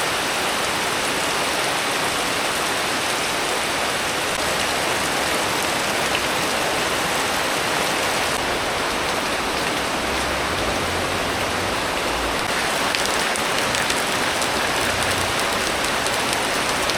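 Hard tropical rain pouring steadily, an even dense hiss of falling drops.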